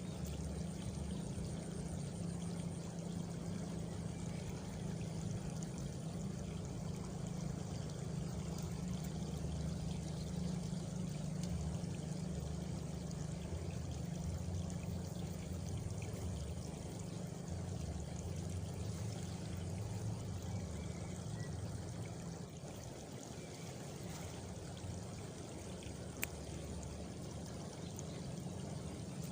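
Steady rushing of running water, like a stream or water pouring, with a faint high insect trill in the first few seconds.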